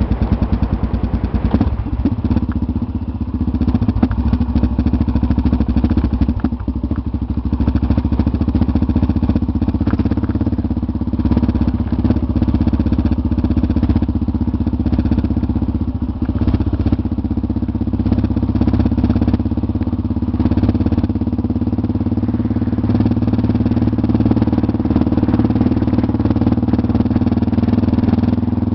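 Motorcycle engine running steadily while under way, with only small rises and dips in level.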